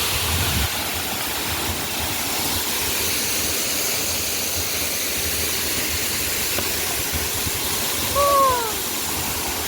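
Waterfall: the steady rush of falling water. About eight seconds in, a brief falling call rises above it.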